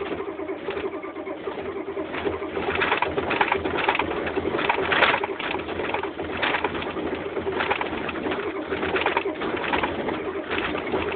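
Cold IDI diesel engine in a Chevy being cranked on the starter, a steady starter drone with evenly repeating compression pulses, not catching. The owner suspects a burned-out glow plug.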